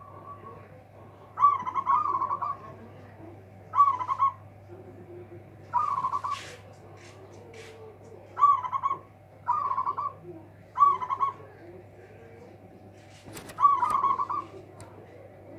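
Zebra dove (perkutut) cooing: a run of about eight short, rolling coos, each half a second to a second long, repeated every one to three seconds over a steady low hum.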